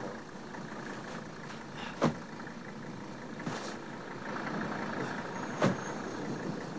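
A car engine idling steadily, with two sharp thumps, about two seconds in and again near the end.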